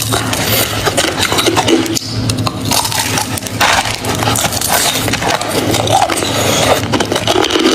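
A person chewing hard crushed ice mixed with chunks of shaved ice, in a dense run of loud, irregular crunches and cracks. A steady low hum runs underneath.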